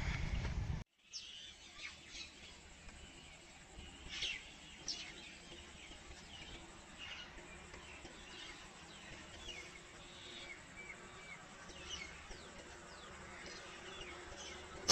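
Small birds chirping and calling, many short sharp chirps scattered over a quiet background. It opens with about a second of loud rumbling noise that cuts off abruptly.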